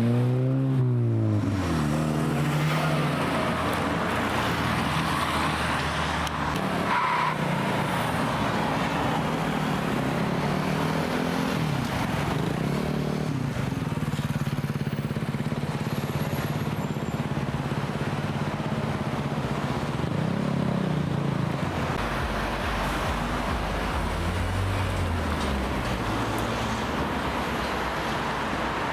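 Modified cars' engines running as they drive slowly past. One revs up and back down right at the start, the engines hold steady through the middle, and there are two short blips of revs about two-thirds of the way through and again a little later.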